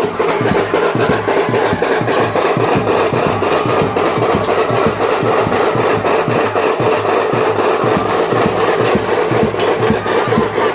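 Heavy rain and hail falling hard: a loud, dense hiss full of small, quick impacts, with band music faint beneath it.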